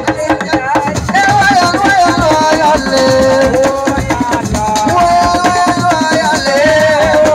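Live Senegalese assiko band music: busy hand drumming and percussion under a long, sustained melodic line that slides between notes.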